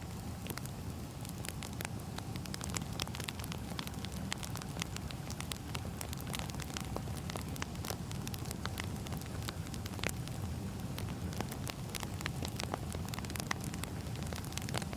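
Burning firewood crackling: many small sharp pops at irregular moments over a low steady rumble.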